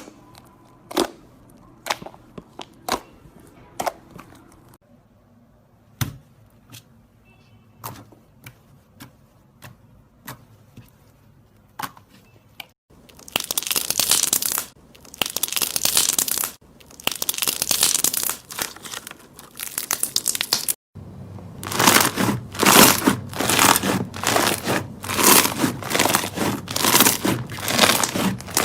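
Slime being played with: separate sharp pops about once a second at first, then long stretches of dense crackling, broken off abruptly twice.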